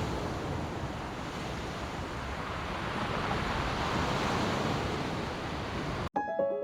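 Surf washing onto a beach, a steady rushing wash that swells a little midway. It cuts off suddenly about six seconds in, and piano music starts.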